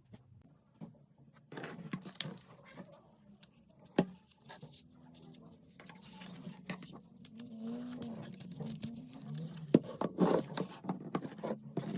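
Plastic LEGO bricks being handled: scattered clicks and taps, one sharp snap about four seconds in and a busier flurry of clicks near the end, with a faint low wavering hum under the second half.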